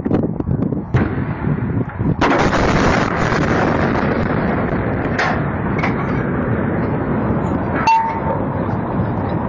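A large explosion heard from a distance: a sudden loud blast about two seconds in, followed by a long rolling rumble. There are a few sharp cracks before the blast and several more after it.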